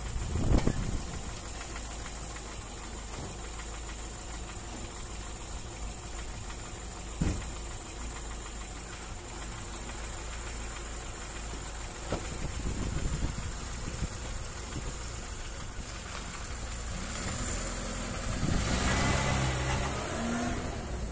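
VAZ-2103 Zhiguli four-cylinder engine running steadily with its valve clearances freshly adjusted. There is a single sharp knock about seven seconds in, and the engine gets louder near the end.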